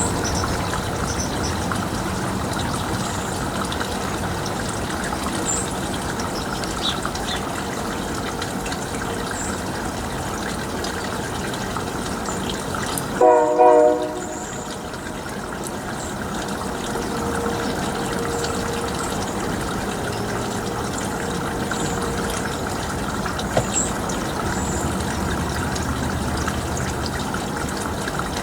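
Steady rushing background noise like running water. About halfway through there is a loud, short horn blast of one steady pitch, in two quick parts. Faint short high chirps sound now and then.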